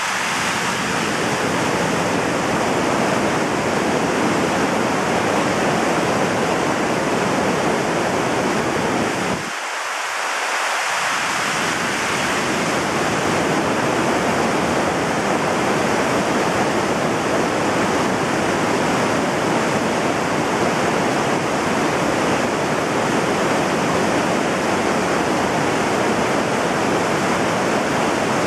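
Mountain stream in flood, rushing steadily over rocks; the water is running high and fast after heavy rain. The deep part of the rush briefly drops out about ten seconds in.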